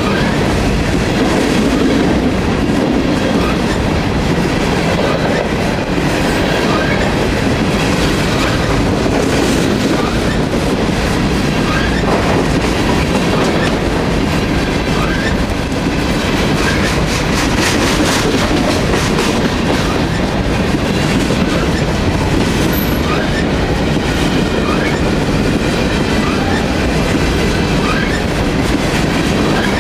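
Covered hopper freight cars rolling past close by: a steady rumble of steel wheels on the rails, with a clickety-clack of wheels striking rail joints.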